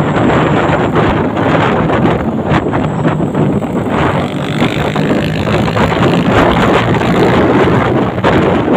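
Truck engine running loudly and steadily, with wind buffeting the microphone.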